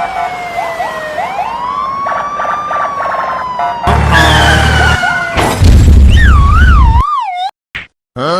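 Cartoon sound effects and music: sliding whistle tones and a run of ticks, then two heavy bass hits in the middle, followed by a wavering siren-like tone that falls in pitch and a short rising whistle near the end.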